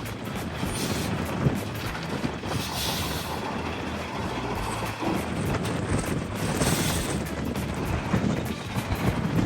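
Semi-truck engine running with a steady low rumble, with two short hisses of air from the air brakes.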